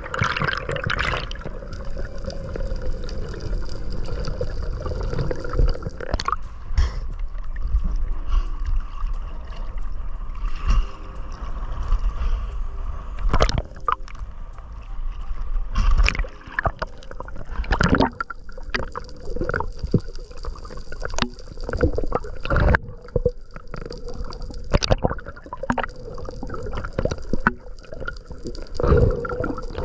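Water sloshing and gurgling around a spearfisher in the sea, with irregular knocks and splashes.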